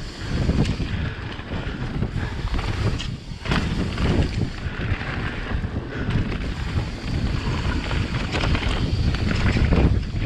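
Wind buffeting a GoPro's microphone during a fast mountain-bike descent, with knobby tyres rolling over a dirt trail and the bike clattering over bumps, easing briefly about three seconds in.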